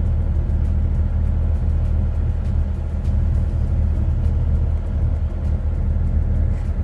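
Heavy truck's diesel engine running steadily under way: a constant low drone with road rumble.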